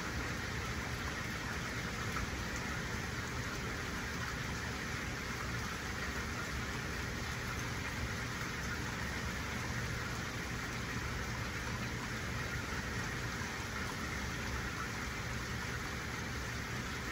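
Steady rain falling in a strong wind: an even hiss of rain with a low rumble underneath.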